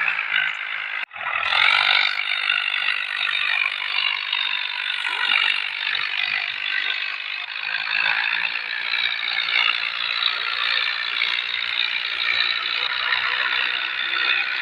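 Ford tractor running with a rotavator, a steady mechanical rattle and whir that breaks off at a cut about a second in and carries on.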